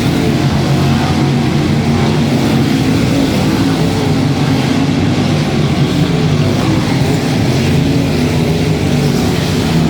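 Sprint car V8 engines running on the track, a loud, steady drone of engine noise without a break.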